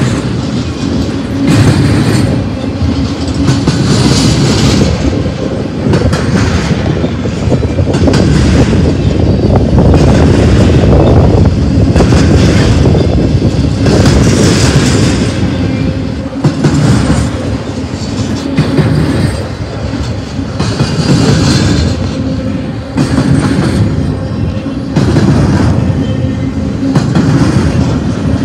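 BNSF freight train cars rolling past close by: a loud, steady rumble of steel wheels on rail, with clatter that swells and fades every second or two as each set of wheels goes by.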